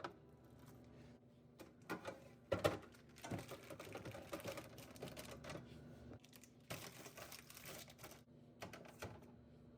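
Hard household items being handled: quick clicks and clatter in two spells, a longer one starting about two and a half seconds in and a shorter one around seven seconds, with a faint steady hum beneath.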